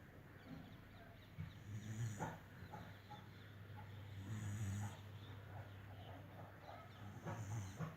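Sleeping dog snoring: three slow, rough snoring breaths about three seconds apart.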